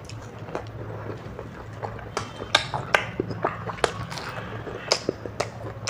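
Close-miked eating of curry pakode with puri and rice: chewing with sharp, wet mouth clicks and smacks, coming thicker from about two seconds in.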